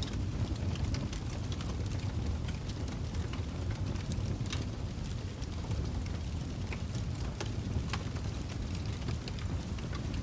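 Fireplace fire crackling: irregular sharp pops and snaps over a steady low rush of burning.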